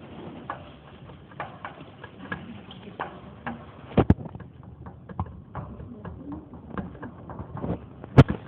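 Irregular light clicks and taps, with a sharp louder knock about four seconds in and another near the end.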